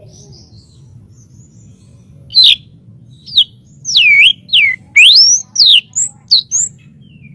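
White-rumped shama (murai batu) singing: a few soft, quiet notes, then from about two seconds in a quick run of loud, clear whistles that sweep down and up in pitch.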